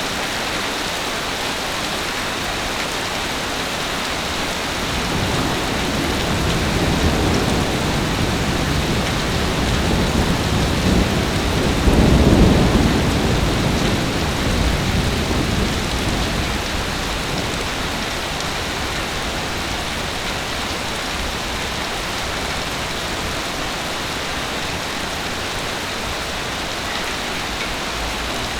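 Heavy rain falling steadily. A long, low rumble of thunder swells from about five seconds in, is loudest near the middle, and fades away a few seconds later.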